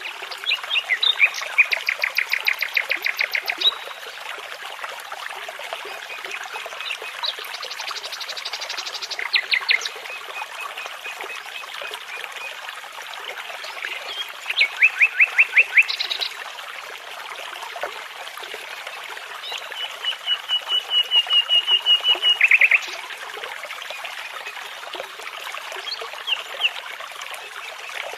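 Nightingale singing in separate phrases, each a rapid run of repeated notes, with pauses of a few seconds between them, over the steady rush of a babbling brook.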